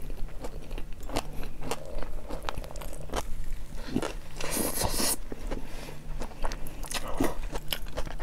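A person biting and chewing a hot dog, with many small wet mouth clicks and smacks and one crunchy bite about four and a half seconds in.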